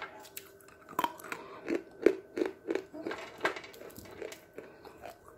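A person biting and chewing hard pieces of chalk close to the microphone: a run of sharp crunches, about three a second, through the middle, with smaller clicks around them.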